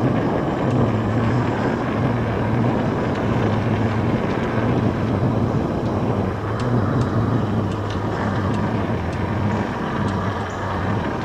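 Steady riding noise of an e-bike in motion: tyres rolling with a low rumble and air rushing past the microphone, with a few light clicks and ticks along the way.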